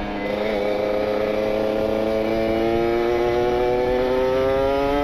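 Kawasaki Ninja RR 150 cc two-stroke single through an R9 Neo Mugello carbon exhaust, accelerating hard with its pitch climbing steadily as the revs run up into the top end. The PWK28 carburettor is jetted rich, a setting meant for high-RPM, top-speed running.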